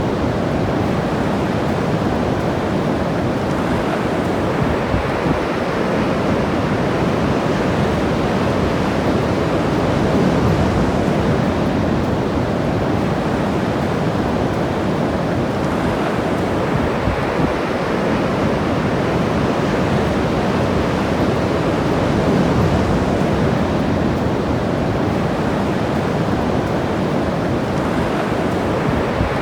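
Ocean surf washing steadily onto the beach, with gentle swells as waves break, and some wind rumbling on the microphone.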